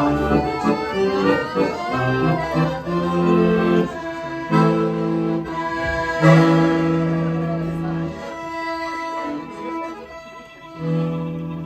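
Live instrumental interlude between sung verses of a slow song: held chords under a moving melody, thinning out about nine seconds in before a new phrase swells near the end.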